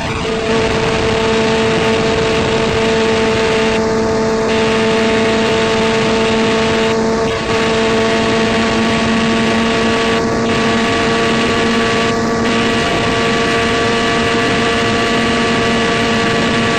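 Kawasaki ZX-6R 636's inline-four engine running flat out at a steady pitch, heard from the rider's seat over loud wind rush.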